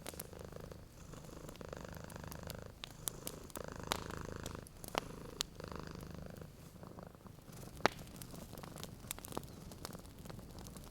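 A domestic cat purring, a low buzzing purr that swells and eases with each breath, under the snaps and sharp pops of a crackling wood fire.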